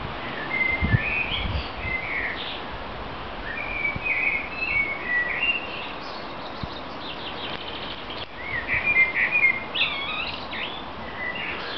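Songbirds singing, a run of short chirping and warbling phrases that come and go throughout, with a brief low thump about a second in.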